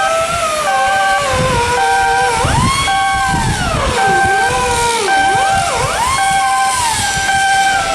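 A warning beeper sounding about once a second over a machine whine that slides up and down in pitch, with a low mechanical rumble underneath.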